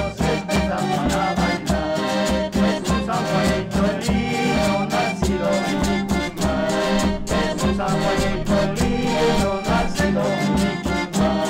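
Instrumental passage of a sanjuanito, Andean dance music, played by a band with a steady, bouncing dance beat.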